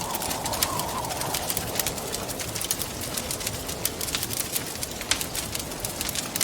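Wood fire crackling with frequent sharp pops, over a steady wind that howls and wavers in pitch, strongest in the first second or so.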